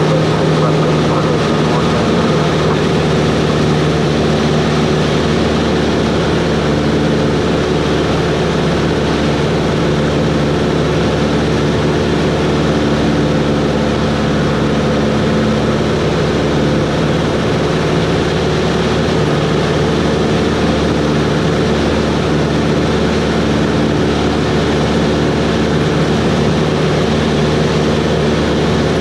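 Cessna 140 light airplane's piston engine and propeller running steadily, a constant drone with no change in pitch.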